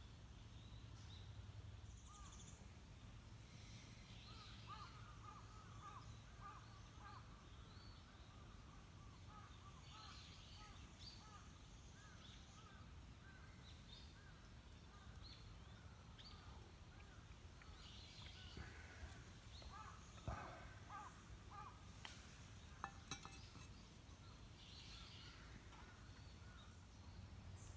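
Near silence of an outdoor campsite with faint birds calling in scattered short notes throughout, and a few sharp clicks a little past the middle.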